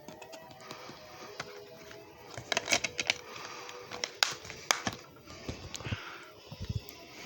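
A run of sharp clicks and knocks, several in quick succession from about two and a half to five seconds in, with a few fainter ticks around them.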